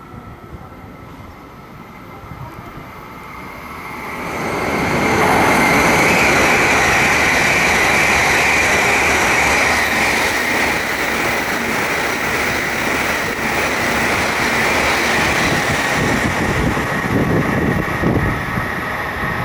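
A Shinkansen train passing through without stopping: a rushing noise that builds about four seconds in and stays loud, with a steady high whine over it.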